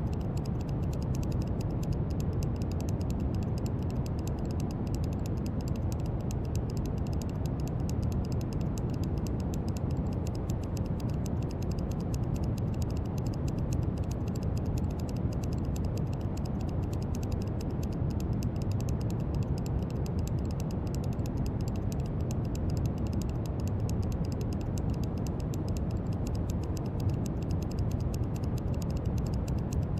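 Brown noise: a steady, deep, even rushing hiss, heaviest in the low end and unchanging throughout.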